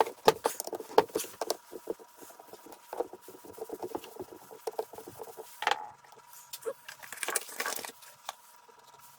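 Hand tools clicking and rattling against the metal of a pressure washer pump as its 10 mm bolts are undone, in quick irregular clicks with a louder clatter about six seconds in.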